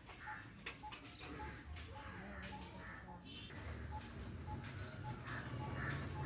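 A bird calling with one short, steady note repeated about twice a second, over a low hum that grows louder in the second half.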